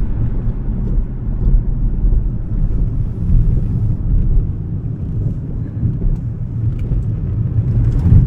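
Steady low rumble of road and tyre noise from a Smart #3 electric car driving at speed, with no engine note.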